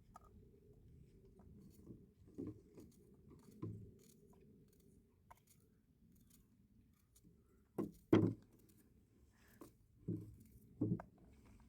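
Scattered dull knocks and handling sounds over a low rumble, the loudest two close together about eight seconds in.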